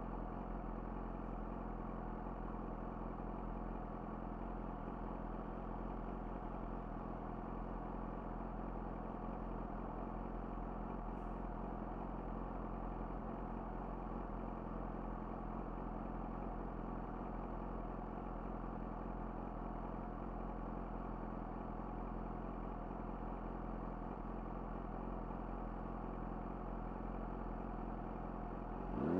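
Yamaha YZF-R6's inline-four engine idling steadily through an Akrapovic slip-on exhaust.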